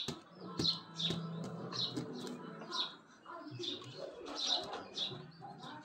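A small bird chirping over and over, short high chirps about two a second.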